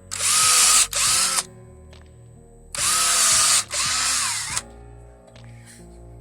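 Cordless drill with a 5 mm bit boring through motorcycle tyre rubber, making holes for the studs. It runs in four short bursts in two pairs, the motor speeding up and slowing with each.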